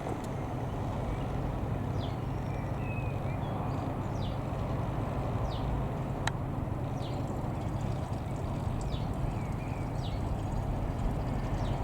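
Steady drone of a light aircraft's engine, the Skyranger Nynja's Rotax 912 flat-four, with small birds chirping in short falling notes about once a second over it. There is a single sharp click about six seconds in.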